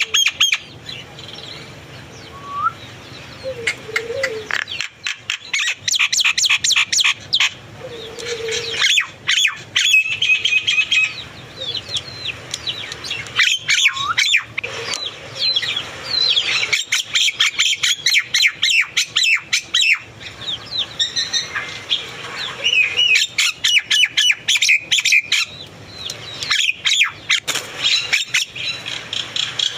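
Birds calling in repeated bouts of fast, sharp chirps, each bout a few seconds long with short pauses between.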